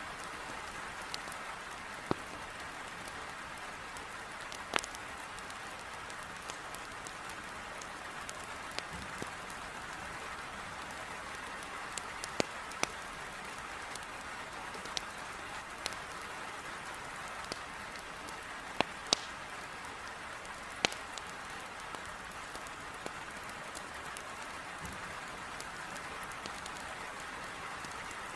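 Heavy rain falling steadily, with a wood fire in a fireplace crackling over it in sharp, irregular pops.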